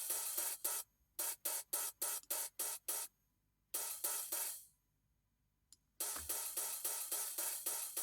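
Open hi-hat from a drum sample library, close mic soloed, repeating a pattern while a noise gate on it is set: the hi-hat's wash is chopped into short hits about five a second, then a longer open hit, a second or so of silence, and the steady sizzling wash comes back near the end.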